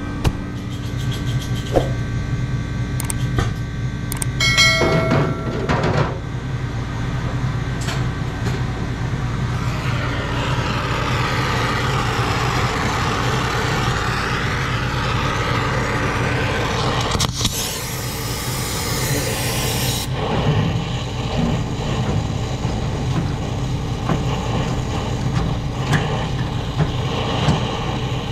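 Brazing torch flame burning with a steady low rumble and hiss, heating copper refrigerant tubing to unsweat a fan cycling switch. A louder rush of hiss comes in for a few seconds past the middle.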